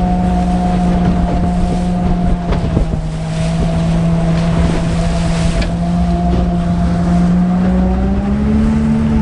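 A motor running steadily with a low hum, its pitch rising slightly near the end.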